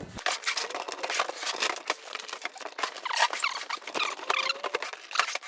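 Packaging being handled while a box is unpacked: a dense, irregular crinkling and rustling with squeaky scrapes.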